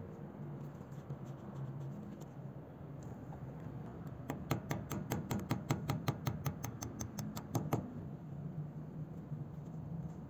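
A quick run of light metal clicks, about seven a second for some three seconds beginning around four seconds in: a thin steel punch worked against the rusty gear hub of an old hand drill during disassembly. A low steady hum runs underneath.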